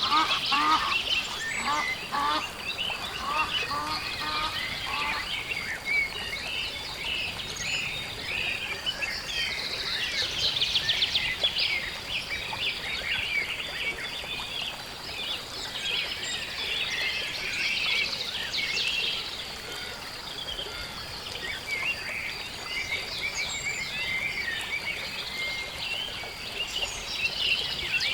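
Marsh dawn chorus: many small birds chirping and trilling throughout. In the first five seconds or so, waterfowl give a run of repeated honking calls, about two a second.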